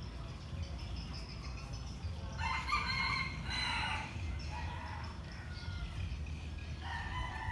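A rooster crowing: one loud call about two and a half seconds in, lasting about a second and a half, with a shorter, fainter call near the end.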